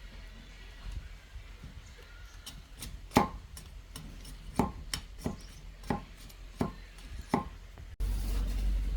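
A blade chopping into bamboo: about seven sharp, ringing strokes at an uneven pace, starting about three seconds in. About eight seconds in the sound cuts abruptly to a steady low hum.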